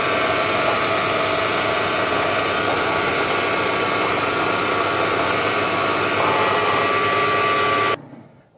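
Proxxon PD 250/E benchtop lathe running steadily with a constant motor whine, then switched off about eight seconds in, the sound cutting off suddenly.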